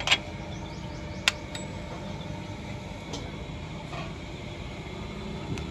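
Two sharp knocks from hand tools on car parts about a second apart, then a few faint ticks, over a steady low workshop hum.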